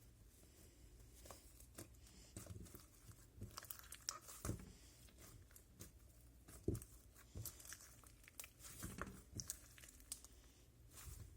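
Homemade slime being squeezed and stretched by hand, giving faint, irregular crackles and pops, with one louder pop a little past the middle.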